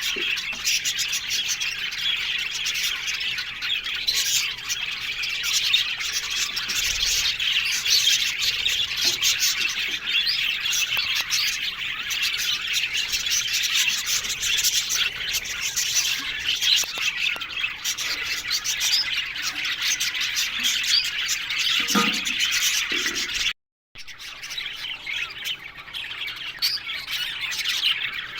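A colony of budgerigars chattering and chirping together: a dense, continuous flock chatter, broken by a brief cut to silence a little before the end.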